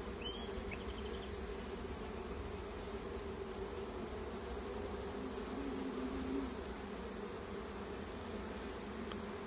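Steady hum of many honeybees flying around an opened hive.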